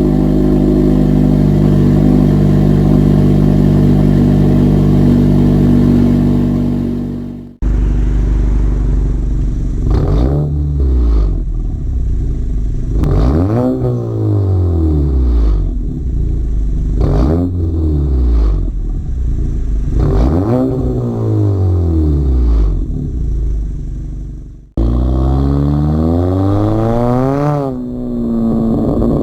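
Exhaust of a Honda Accord's 1.5-litre turbocharged four-cylinder with a PRL catless downpipe and frontpipe and a Thermal R&D exhaust with quad 4-inch tips. A steady held drone cuts off suddenly about seven seconds in; then the engine revs up and falls back several times, and after another cut it revs once more.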